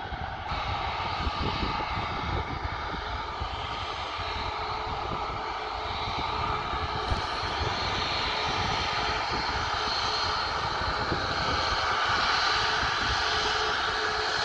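Aircraft engines running steadily, a continuous whine and rush that grows somewhat louder over the last few seconds.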